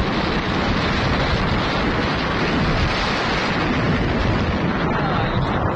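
Wind rushing over the microphone of a rider on a moving motorcycle: a steady, loud buffeting noise with a heavy low rumble.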